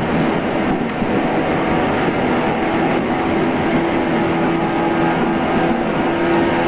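Running sound of a JR East 113 series electric train heard from inside the car, going along at a steady speed: a constant rumble with a steady hum from the motors and gears. Dull and band-limited, as recorded on cassette tape.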